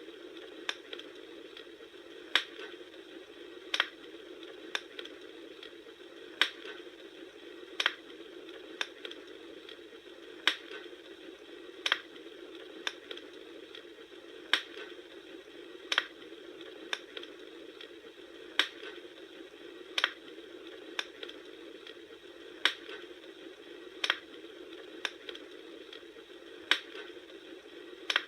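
Campfire crackling: sharp pops and snaps of burning wood at an even pace, a loud one about every second and a half with fainter ones between, over a steady low hiss.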